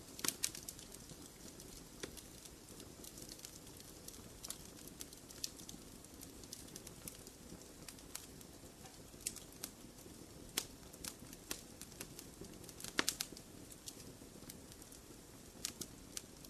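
Wood fire in a fireplace crackling, with irregular sharp pops over a soft steady hiss of the flames. The loudest cluster of pops comes about a second in and again about two-thirds of the way through.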